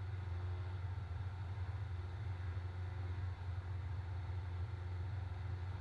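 Cessna 172SP's four-cylinder Lycoming engine and propeller in flight, a steady low drone as heard through the aircraft intercom and headset audio feed.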